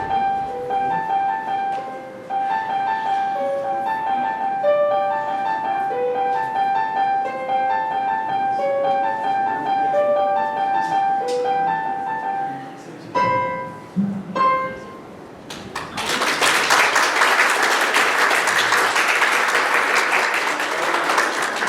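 Piano playing a quick, repetitive melody in the middle register, which stops about two-thirds of the way through after a few final notes. An audience then starts applauding and keeps clapping to the end.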